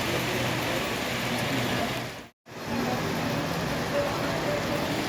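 Steady running noise of a model railroad layout room, with faint distant voices. The sound drops out abruptly to silence for a moment a little under halfway through, then resumes as before.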